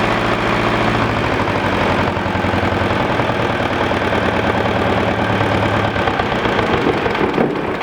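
Volvo Penta MD7B two-cylinder marine diesel running steadily with a rapid, even knocking beat.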